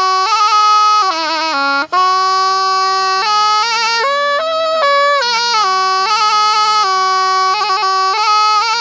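Thai pi, a reed oboe, playing a solo melody with quick trills and ornamented runs. The line breaks off for a moment just under two seconds in.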